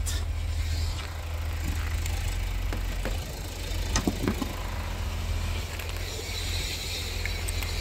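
Ford AU Falcon engine idling steadily with a low rumble after a jump start.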